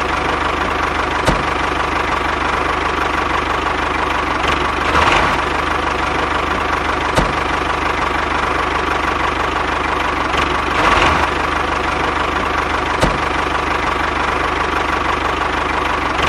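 Small motor of a homemade mini tractor running steadily, with a faint tick roughly every six seconds and a brief rise in level twice.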